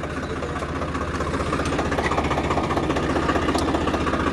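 Tractor engine idling steadily, with a rapid, even pulsing.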